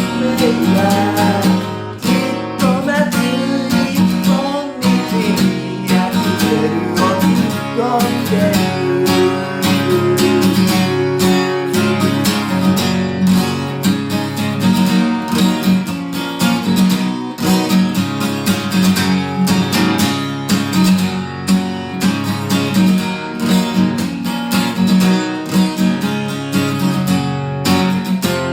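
Acoustic guitar strummed in a steady rhythm, playing an instrumental passage between the sung verses.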